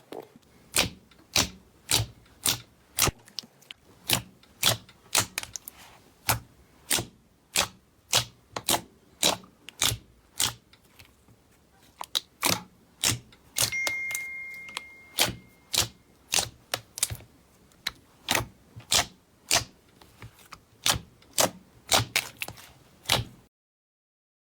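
A steady run of sharp, evenly spaced clicks, about two a second, with a brief high steady tone about halfway through; the clicking stops abruptly about a second before the end.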